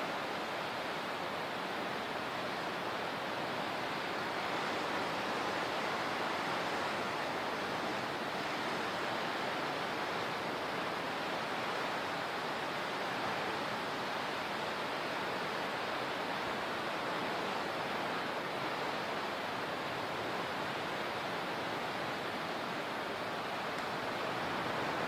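Steady rushing of moving water, an even continuous hiss with no separate wave crashes standing out.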